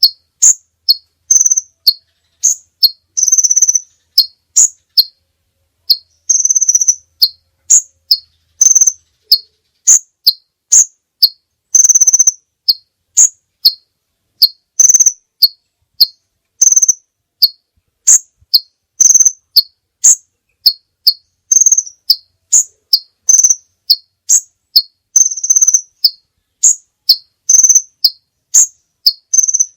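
High-pitched chirping from a masteran training recording. Short notes keep repeating, alternating between a higher and a lower pitch, with an occasional longer buzzy note mixed in. Between the notes there is dead silence.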